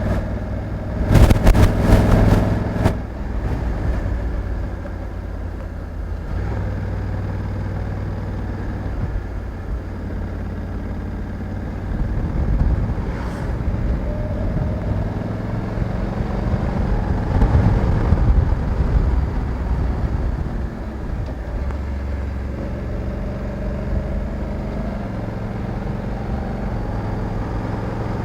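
Honda Africa Twin 1100 DCT's parallel-twin engine running under way, its pitch shifting up and down with speed. A loud burst of crackling noise comes about a second in and lasts about two seconds.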